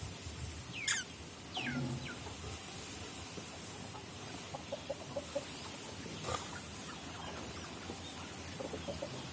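Animal calls: two short falling chirps about a second in, then soft runs of short, quick calls in the middle and near the end.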